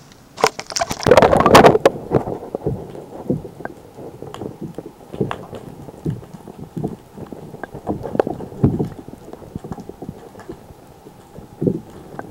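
Water splashing loudly at a kayak's side for about a second and a half near the start, then scattered small splashes and light knocks against the hull.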